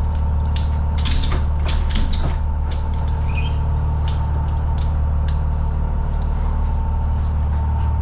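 Irregular sharp clicks and creaks of metal cargo gear being worked, such as a ratchet strap or latch, over a steady low hum from the idling box truck.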